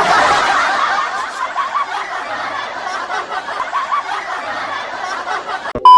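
Many people laughing together, loudest at the start and easing a little over the following seconds. Near the end the laughter cuts off and a steady high beep begins.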